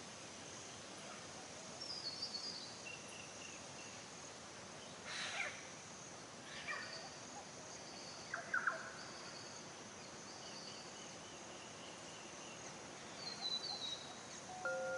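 Birds calling over a steady outdoor hiss: a few short, high chirps and several harsher calls spread through the middle of the clip.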